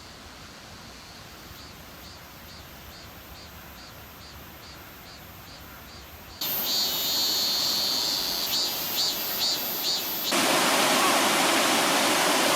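Mountain valley stream rushing, heard in abrupt steps. First a faint hiss with a regular high chirping about three times a second, then much louder water with the chirping still going from about six seconds in. Near the end comes a loud, even rush of water.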